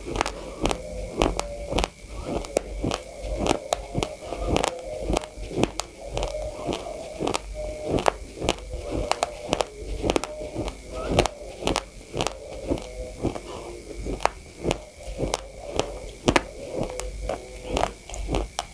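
Uncooked white rice grains being chewed with the mouth closed: a quick, irregular run of sharp crunches, several a second, as the hard grains crack between the teeth.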